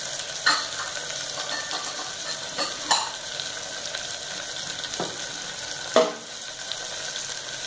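Chopped green beans, carrots and potatoes frying in hot oil with onions in an aluminium pressure cooker: a steady sizzle. Four sharp clinks of dishes are heard, about half a second, three, five and six seconds in.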